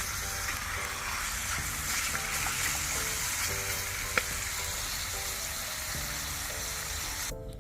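Pork belly sizzling steadily on a hot grill, with one sharp click about four seconds in. The sizzling cuts off suddenly near the end.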